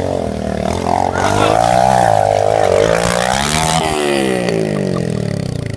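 Small motorcycle engine running with its revs swinging up and down, the pitch rising and falling smoothly without a break.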